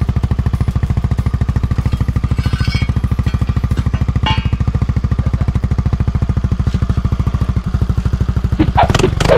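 Motorcycle engine idling with a rapid, even putter, with a few light clatters over it and some sharper knocks near the end.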